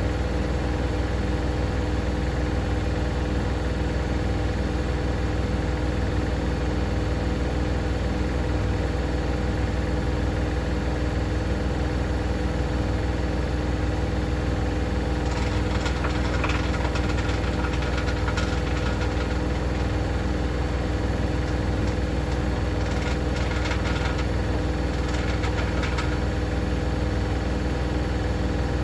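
Hoover DynamicNext DXOA410C3 washing machine on its spin cycle: a steady motor-and-drum hum with a fast low pulsing. Twice, about halfway through and again near the end, a rattle joins it for a few seconds, the noise the owner puts down to a £1 coin lodged under the heating element.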